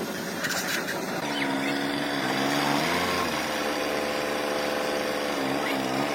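A small engine running at a steady speed, its pitch dipping briefly and recovering twice.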